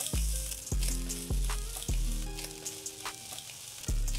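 Vegetable fried rice sizzling in a hot pan as it is stirred with a wooden spatula, a steady crackling hiss. Background music with a deep bass beat plays under it.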